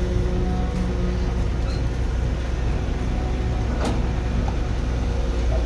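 Heavy construction machine's engine running steadily with a low drone, with a single sharp click about four seconds in.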